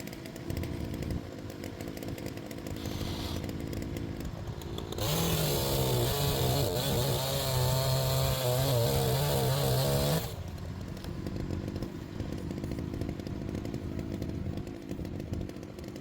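Chainsaw running at idle, then opened to full throttle about five seconds in. Its pitch rises, then sags and holds lower for about five seconds as it cuts through a log. It then drops back to idle.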